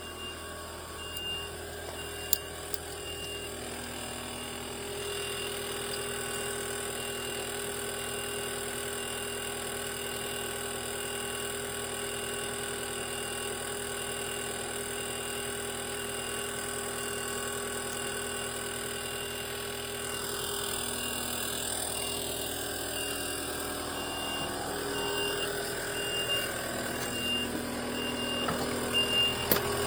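Machine engine running steadily, with a faint short high beep repeating throughout like a reversing alarm; it gets a little louder near the end.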